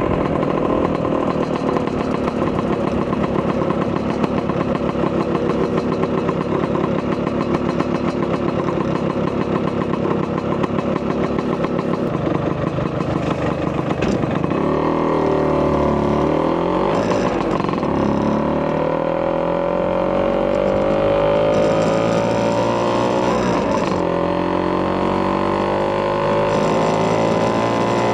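A Vespa PX200's two-stroke single-cylinder engine, bored out to 210cc with a Polini kit and breathing through a Marossi expansion-chamber exhaust. For about the first half it runs steadily at low revs. Then it pulls away, its pitch rising and falling repeatedly as it accelerates through the gears.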